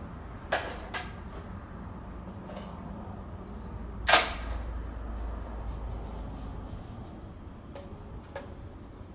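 A few sharp knocks and clanks of hard objects being handled, the loudest about four seconds in with a short ring, over a low steady hum.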